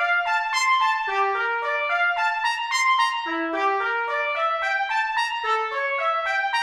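Trumpet playing a solo melody, one short note after another at about three notes a second.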